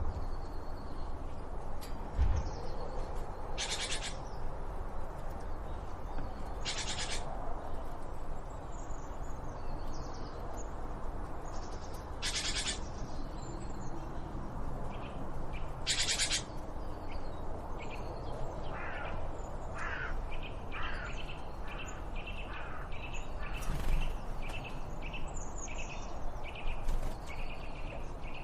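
Wild birds calling: four loud, harsh calls a few seconds apart in the first half, then a quick run of short, high repeated notes from about halfway on, over a steady low background rumble.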